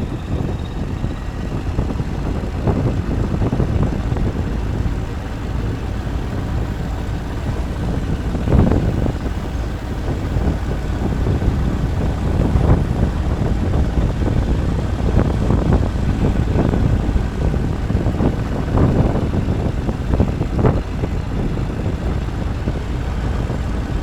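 Wind buffeting the microphone: a steady low rumble with short gusts every second or two.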